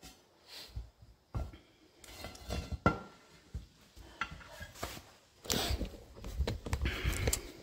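Metal clinks and knocks from the steel split-rim wheel halves and tools being handled, with one sharp click just before the three-second mark and a stretch of scraping and rubbing near the end.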